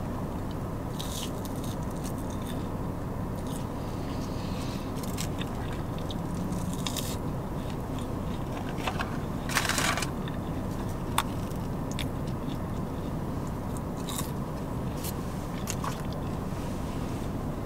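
A person chewing and biting waffle fries close to the microphone: small wet mouth clicks and crunches over a steady low hum, with a louder crackle about ten seconds in and a sharp click just after.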